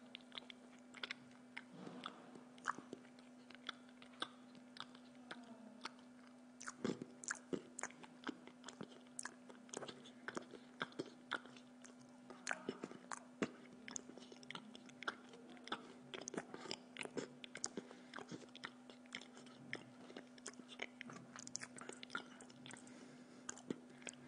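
Close-up chewing of spaghetti in tomato sauce and bread: a steady run of short, wet mouth clicks and smacks, over a steady low hum.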